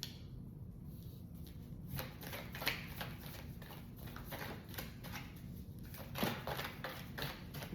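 A tarot deck being shuffled and handled: a run of soft, irregular card clicks and riffles as clarifying cards are drawn.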